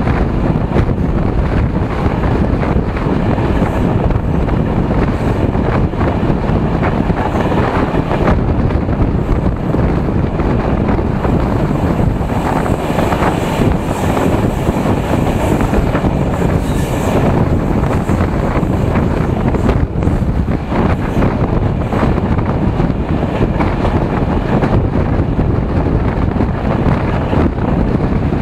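Wind buffeting a microphone held out of a moving passenger train's window, over the steady running noise of the carriage on the rails.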